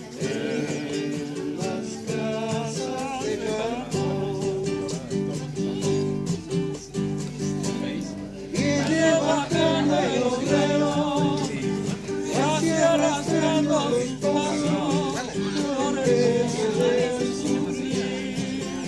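Acoustic guitar music, plucked and strummed. About halfway through, a singing voice joins it and the music grows louder.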